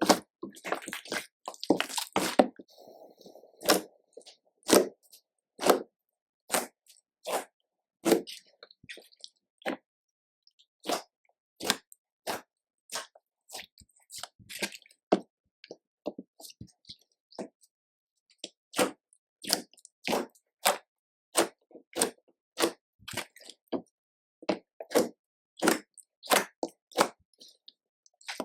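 Slime being squeezed and folded by hand: a run of short, sticky clicks and pops, about one or two a second.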